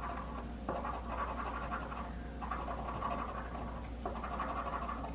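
Coin scratching the latex coating off a lottery scratch ticket, in spells of rasping strokes with short pauses between them.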